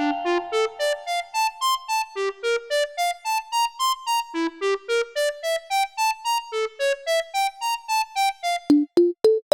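A simple melody played on a piano-like keyboard sound, short detached notes at about four a second climbing and falling. Near the end a different, sharper and clickier instrument takes up the same tune.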